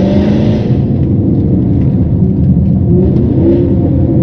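Range Rover L322's 5.0-litre supercharged AJ133 V8 running hard through an aftermarket exhaust with its valves open, the engine note rising in the first second and again about three seconds in.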